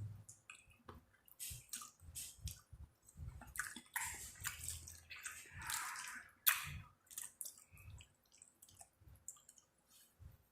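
Close-up wet chewing and lip smacking, irregular moist clicks and squelches of a mouthful of food, with one sharper click about six and a half seconds in.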